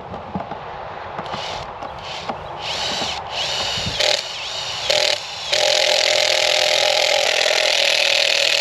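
Power drill boring holes in a wooden gate post: a few short trigger pulls with the motor speeding up and slowing down, then a steady run of several seconds from about halfway through.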